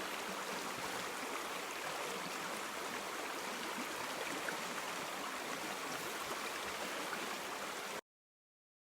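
River water flowing steadily, an even rushing sound that cuts off abruptly about eight seconds in.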